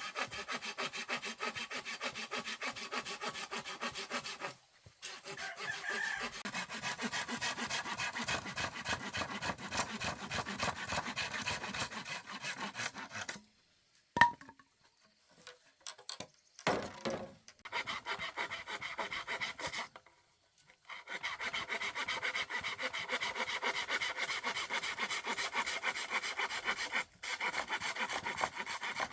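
Sawing through bamboo in long runs of fast, even strokes, with short stops and a break of several seconds midway marked by a single sharp knock.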